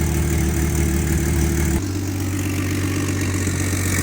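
Replacement engine in a 1998 Jeep Cherokee XJ running steadily, freshly installed and started. About two seconds in, the engine sound shifts abruptly to a slightly different steady note.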